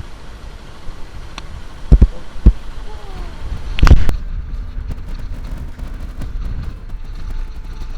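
Low rumble of wind and road noise, broken by sharp knocks on the microphone: two about two seconds in and a louder one near four seconds.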